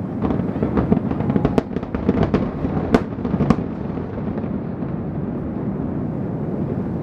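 Fireworks display: a rapid run of crackles and sharp bangs for the first half, with the loudest reports about a second and a half and three seconds in. After that the bursts stop and only a steady background din remains.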